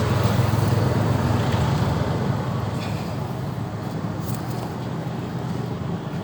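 Heavy vehicle's engine running with a steady low rumble, loudest in the first second and slowly fading.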